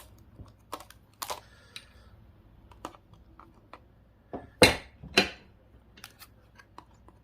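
Small hand tools clicking and scraping as they pry at a GPS unit's plastic case, with two loud sharp cracks a little over halfway through. The case is not giving way because a hidden screw still holds it.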